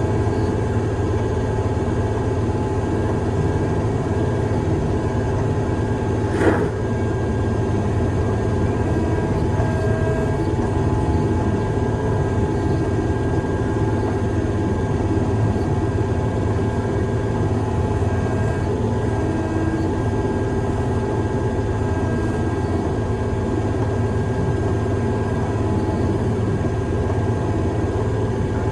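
Heavy-equipment diesel engine running steadily, with a single sharp click about six seconds in.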